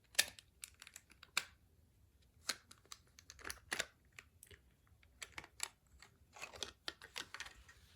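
Irregular sharp clicks and light clatter of small plastic toy parts being handled during reassembly, some clicks coming in quick clusters with short scraping sounds between them.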